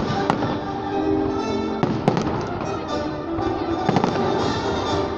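Fireworks salute: a few sharp bangs from bursting shells, about a second and a half to two seconds apart, over music playing.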